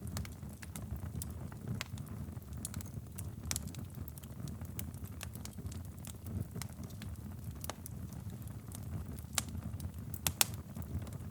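Wood fire crackling in a fireplace: a steady low rumble of flame with irregular sharp pops and snaps, the loudest pair a little over ten seconds in.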